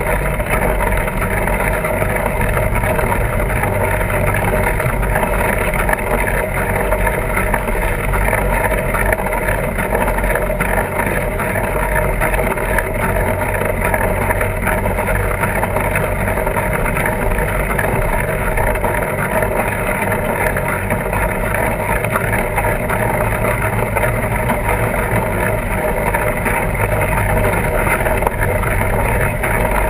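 Steady rushing and humming from a fat-tire bike ride: wind buffeting the camera microphone over a continuous rumble of the wide tires rolling.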